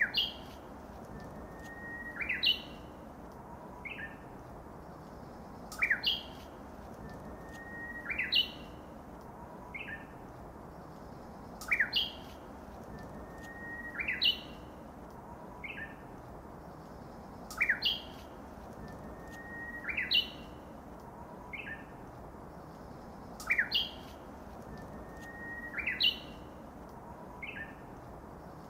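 A bird singing clear whistled notes. The pattern repeats about every six seconds: a short level whistle leads into quick upward-sweeping notes, and a quieter short note follows. Under it runs a faint steady background hiss.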